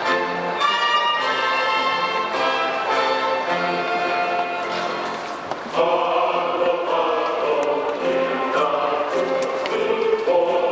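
Music with a choir singing held notes over an instrumental accompaniment, growing fuller about six seconds in.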